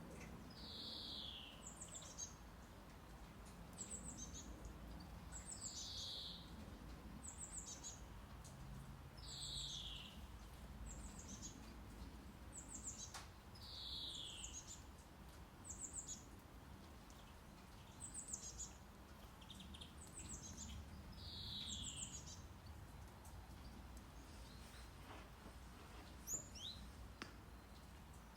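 Faint birdsong: short high chirps, each followed by a quick falling note, repeating about every two seconds over a low, steady brown-noise rumble.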